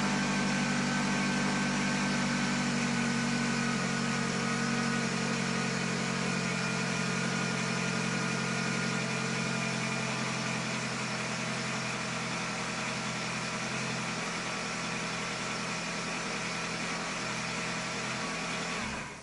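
Car engine running steadily with an even hum, cutting off suddenly at the very end.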